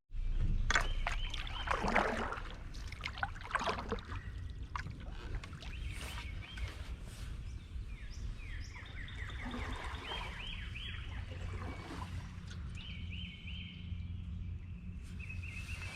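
Canoe paddle strokes splashing in creek water during the first few seconds, over a low, steady rumble of flowing water. A bird then sings runs of quick, repeated high notes, starting about midway and again near the end.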